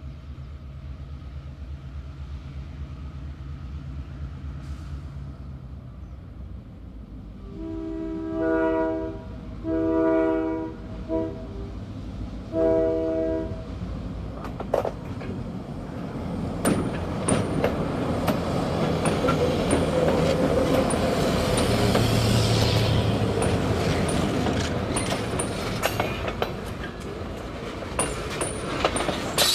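An EMD GP38-2 diesel locomotive, whose engine is a two-stroke V16, approaches with its engine running. It sounds its multi-tone horn four times, long, long, short, long: the North American grade-crossing signal. It then passes, followed by freight tank cars rolling by with rapid wheel clicks over rail joints and brief high squeaks.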